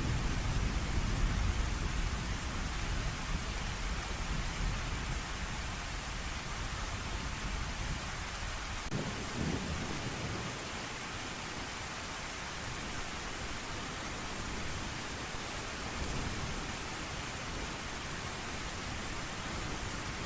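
Steady heavy rain with a low thunder rumble that fades away over the first half, and a short low rumble about nine seconds in.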